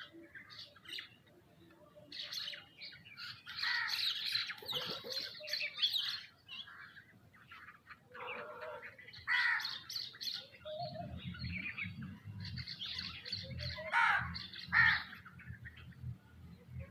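Several birds chirping and squawking in scattered bursts, with a low rumble under them in the second half.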